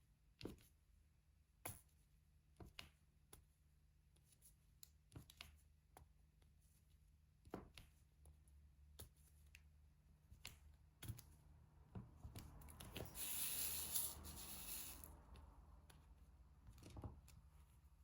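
Faint, irregular small taps and clicks of diamond painting work, the drill pen pressing resin drills onto the sticky canvas, with a rustle lasting about two seconds a little past the middle.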